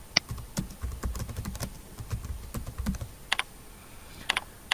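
Computer keyboard typing: a quick run of keystrokes for about three seconds, then a few sharper, spaced-out clicks near the end.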